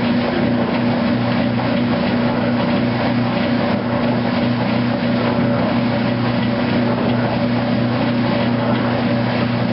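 2008 Kenmore washing machine running its heavy duty cycle: a steady motor hum over a constant wash of noise.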